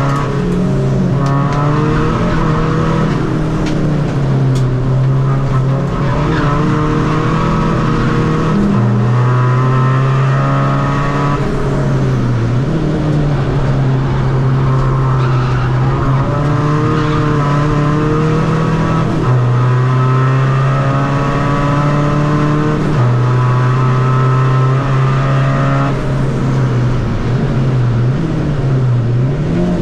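Seat Ibiza FR's tuned 2.0 four-cylinder common-rail diesel engine driven hard on track, its revs climbing and then breaking off several times as it shifts gear and lifts for corners.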